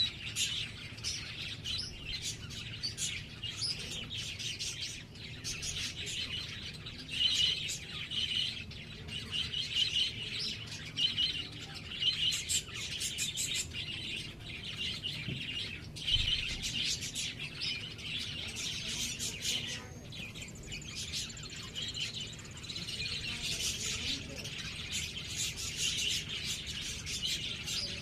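Small birds chirping, a dense run of quick, high chirps that overlap and carry on without a break.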